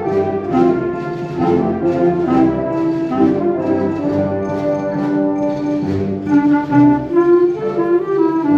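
A wind band playing live: brass and woodwinds together, with horns and trumpets prominent over sustained chords and a steady pulse.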